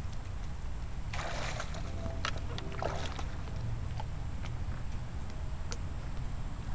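1993 Kawasaki 750SX stand-up jet ski's two-stroke twin running out on the water, a steady low rumble with a brief rise in noise between about one and three seconds in.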